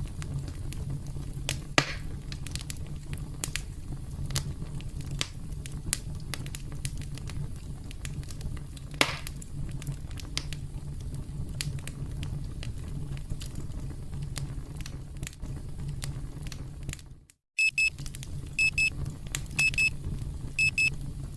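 Campfire crackling with sharp pops over a steady low rumble. About seventeen seconds in, the fire sound cuts out for a moment and a timer alarm starts: short, high-pitched electronic beeps, mostly in quick pairs about once a second, louder than the fire, signalling the countdown has reached zero.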